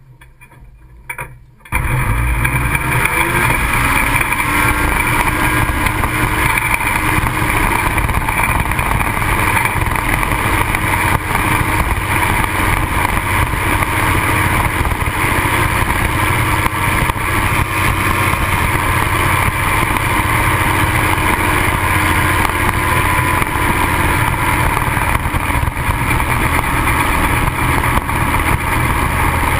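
Ultralight aircraft engine running steadily, with wind rushing over the wing-mounted camera. The loud, even drone starts abruptly about two seconds in after a quiet moment.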